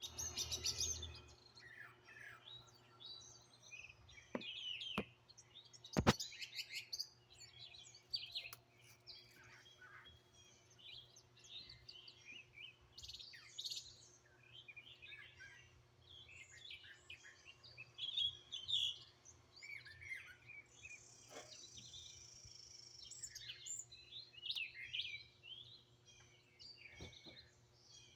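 Several songbirds chirping and singing at once, a busy overlapping mix of short high chirps and trills. A few sharp clicks sound now and then, the loudest about six seconds in.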